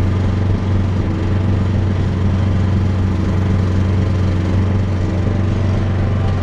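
Small excavator's diesel engine running at a steady speed, with a low, even hum; it starts and cuts off abruptly.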